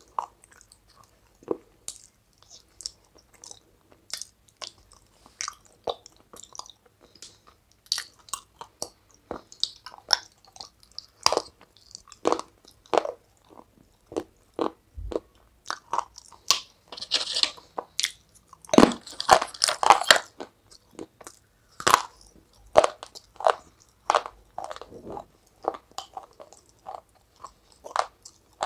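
A person biting and chewing dry, brittle pieces dipped in white powder: a steady run of sharp crunches, with a louder, denser flurry about two-thirds of the way through.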